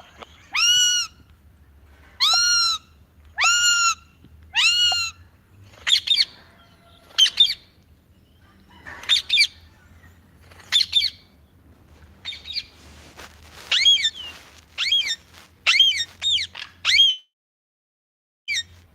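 Parrot squawking over and over: four long calls about a second apart, then a run of shorter, quicker calls that stops shortly before the end.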